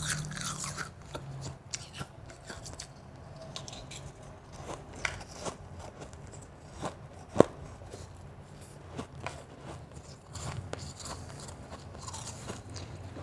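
Close-miked chewing and crunching of soft, crunchy ice: irregular crackling crunches, with one sharp, loud crack about seven seconds in.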